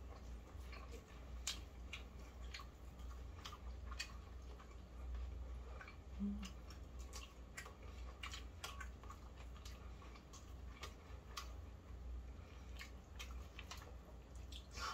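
Close-miked chewing of fried chicken: irregular crunches and mouth clicks, a few a second, over a steady low hum.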